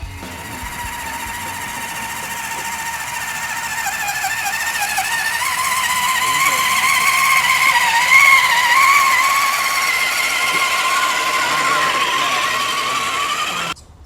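Small electric motor and gears of an RC rock crawler truck whining steadily, the pitch wavering slightly. It grows louder toward the middle and cuts off suddenly near the end.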